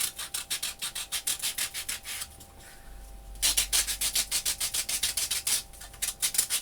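Rapid scraping strokes of a paper-distressing tool rubbed along the edges of a paper photo cutout to rough and age it, about five or six strokes a second, pausing briefly midway before resuming.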